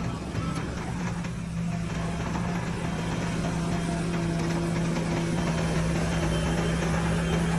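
Heavy diesel earthmoving machine's engine running at a steady speed, a constant low hum.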